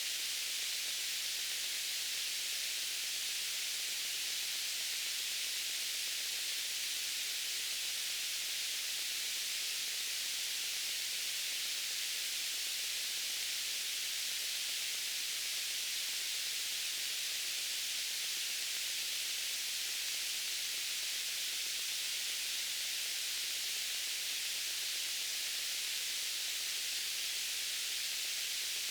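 Steady white noise: an even, unchanging hiss, strongest in the upper treble and thin in the bass.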